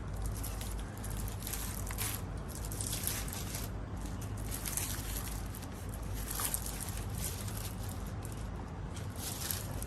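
Irregular rustling and scraping from objects being handled, over a steady low hum.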